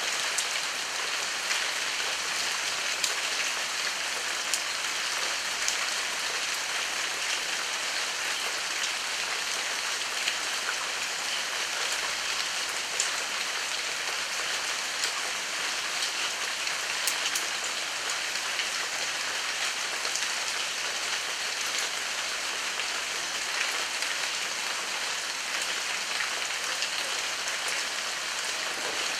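Heavy rain falling steadily, a constant hiss with scattered sharper ticks of individual drops striking close by.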